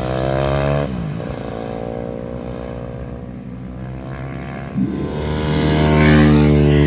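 Racing motorcycle engines at high revs. The engine note drops sharply about a second in, as a bike backs off or passes, and another engine revs up from about five seconds in and holds loud.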